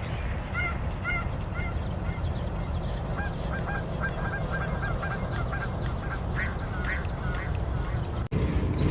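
A bird calling in short, repeated notes over a steady low rumble, with a quick run of calls in the middle. The sound cuts off abruptly near the end.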